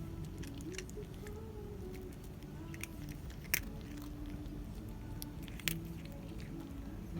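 A cat chewing and crunching dry cat food: irregular small crunches, with two sharper crunches about three and a half and five and a half seconds in.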